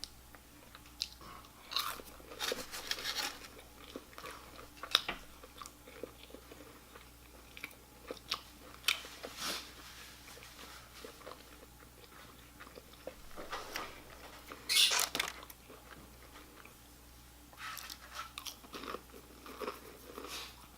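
Close-up eating sounds: biting into and chewing crispy fried chicken, with scattered crunches and wet mouth noises.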